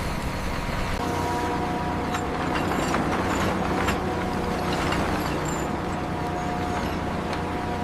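Heavy machinery running steadily: a low rumble with a steady whine that sets in about a second in, and scattered light clicks and knocks.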